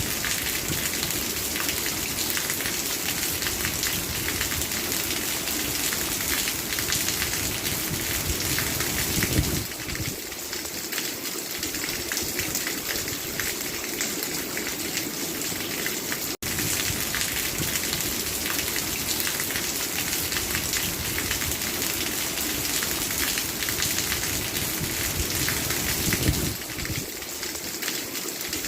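Steady rain falling, a dense even hiss of drops. It eases slightly just under ten seconds in and again near the end, and cuts out for an instant a little past halfway.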